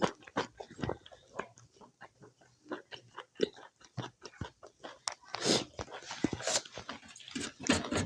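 A person chewing and smacking their lips while eating pork curry with rice: irregular wet clicks and smacks, busier and louder from about five seconds in.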